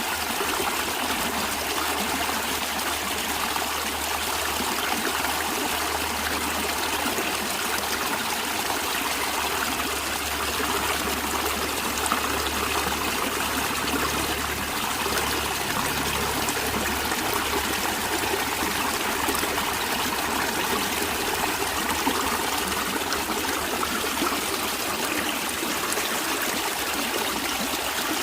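Stream water running over rocks, a steady, even rush with no pauses. A low rumble underneath fades away a little over halfway through.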